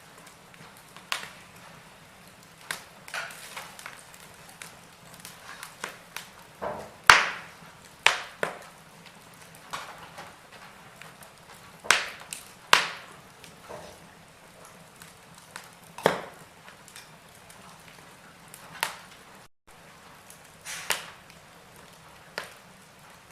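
Wood fire crackling in a fireplace: irregular sharp pops and snaps over a soft hiss, the loudest pops about seven seconds in and again around twelve seconds.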